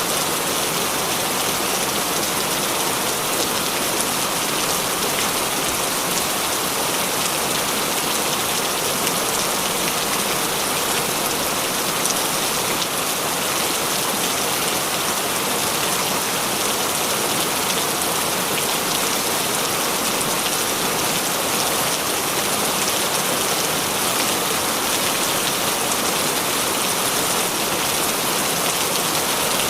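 Heavy rain falling steadily, a dense even hiss of countless drops with no let-up.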